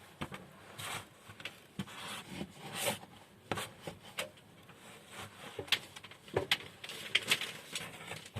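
Wooden boards being handled and set in place: irregular knocks and short scrapes of wood against wood.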